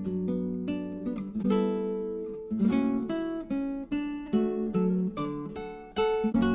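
Background music: acoustic guitar, a steady run of plucked and strummed notes.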